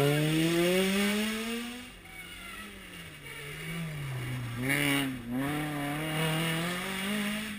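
Rally car engine under hard acceleration, its pitch climbing steadily and loudest in the first two seconds. It then drops away, the revs rising and falling through gear changes before climbing again near the end.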